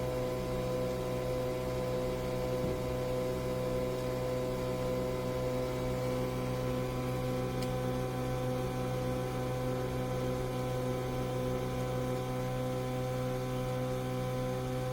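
Nespresso Vertuo Pop+ coffee machine running mid-brew, a steady mechanical hum at one pitch.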